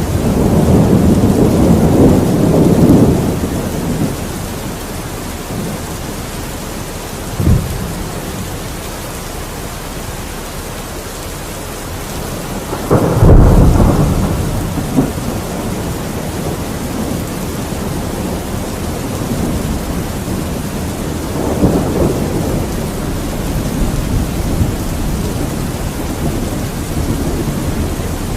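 Thunderstorm: steady heavy rain hissing throughout, with rolling thunder. A rumble fades out in the first few seconds, a short sharp crack comes about seven seconds in, a louder clap about thirteen seconds in rumbles away over several seconds, and softer rumbles roll on through the last third.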